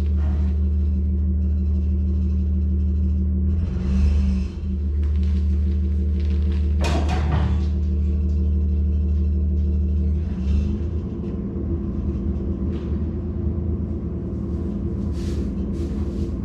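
Vehicle engine running steadily at low speed while a trailer is maneuvered into a shed. There is a short clatter about seven seconds in, and the engine note changes about ten seconds in.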